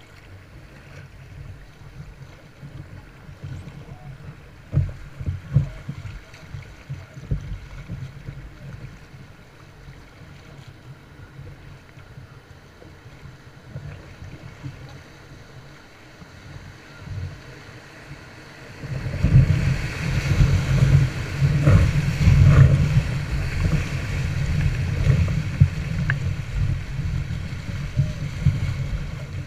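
Kayak on a river: rushing water and wind buffeting the microphone, with a few splashes early on. About two-thirds of the way through, the water noise rises sharply and stays loud.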